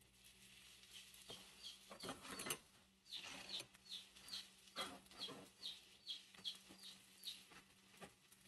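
Faint run of short, high, falling chirps, about three a second, like a bird calling, over a low steady hum. A few soft clicks come as diced onion is dropped into a cast-iron skillet.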